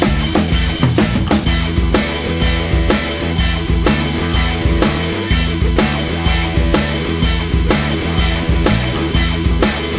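Loud hard rock recording: a drum kit keeps a steady beat of about two hits a second under bass and electric guitar.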